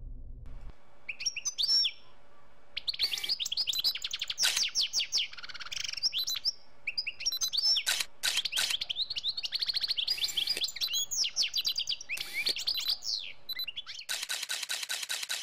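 Birds chirping, with many quick, varied chirps and whistles overlapping, then a fast, even run of clicks near the end.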